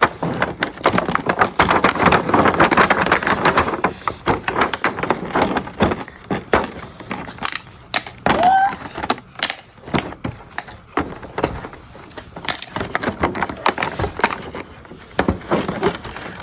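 Plastic toy kitchen-set pieces and packaging being handled during unboxing: irregular clattering, clicking and rustling, with a brief voice sound about eight seconds in.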